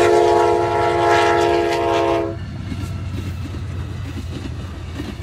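Amtrak train horn sounding one long multi-note chord that cuts off about two seconds in, then the train clattering past on the rails with a steady low rumble.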